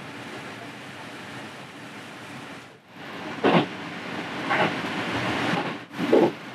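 Local electric train running on the line, heard from just behind the driver's cab: a steady rumble that grows louder about three seconds in. From then on, sharp knocks come from the wheels passing over rail joints, three times, the last one doubled.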